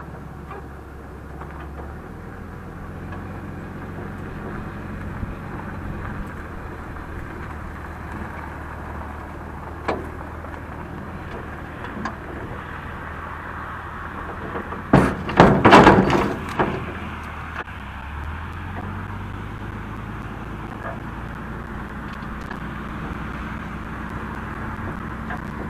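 Vehicle engine running steadily while towing a trailer loaded with a heavy steel boiler, its pitch shifting twice. About fifteen seconds in there is a loud burst of rattling and banging lasting about two seconds.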